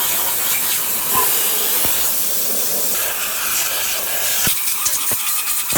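Loud, steady hiss, strongest in the high range, with a few faint clicks; it cuts off suddenly at the very end.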